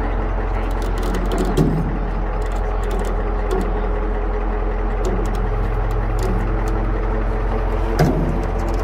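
Flatbed tow truck's engine running steadily while the truck is being loaded onto the deck, with a short knock about a second and a half in and another near the end.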